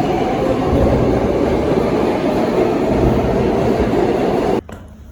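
Rail train running, heard as loud, steady rumbling ride noise. It cuts off abruptly near the end.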